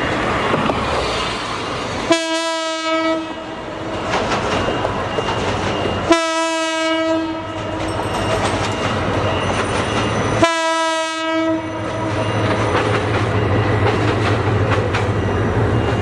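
Passing passenger train: the locomotive sounds its horn in three separate blasts of about a second each, a few seconds apart, over the steady rumble and clatter of the wheels on the rails.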